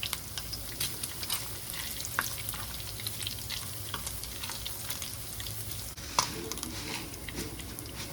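Bacon frying in a pan, the grease sizzling with a steady patter of small pops and crackles; one sharper knock about six seconds in.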